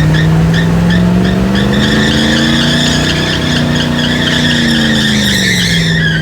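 Truck engine held at high revs during a burnout, with tyres squealing against the pavement. The squeal starts as quick chirps and turns continuous about two seconds in; the revs climb and then drop back near the end.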